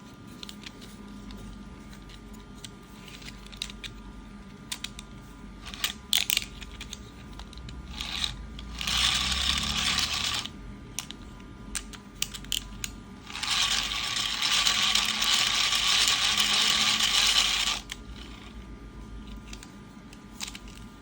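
A hand-powered 3D-printed PLA fan's gear mechanism being spun, whirring in two spells (about two seconds, then about four), with light plastic clicks and rattles in between.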